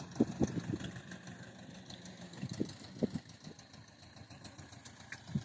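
Tractor engine idling steadily, with a few short knocks over it.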